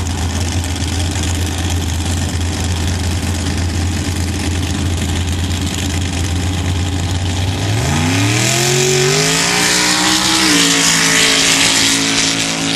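Sand drag racing truck's engine idling steadily at the start line, then launching about eight seconds in: the engine note climbs sharply under full throttle, steps down once as it shifts, and runs on at high revs with a loud rushing hiss until it cuts off suddenly.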